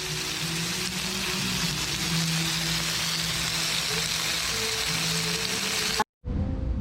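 Thick black-pork neck and vegetables sizzling on a hot griddle, with soft background music under it. The sound cuts off abruptly about six seconds in.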